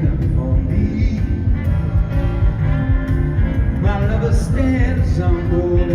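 Live pop-rock band playing a song, with a male lead singer's voice over a full, steady band sound.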